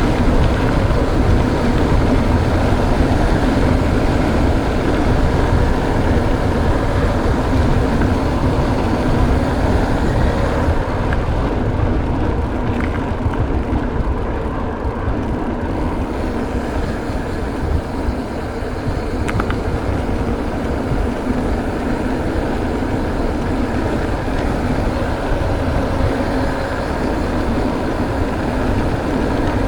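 Steady wind rush over the microphone with tyre and trail noise from a mountain bike being ridden, heaviest in the low end.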